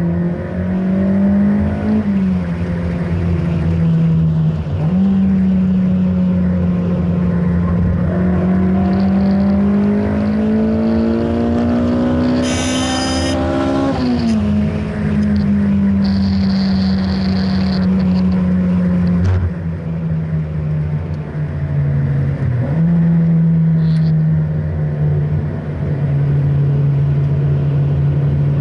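Honda Integra DC5's four-cylinder engine driven hard on track, heard from inside the cabin. The revs climb steadily for several seconds about halfway through, then drop sharply as the driver lifts or shifts, with a few shorter dips in revs around it.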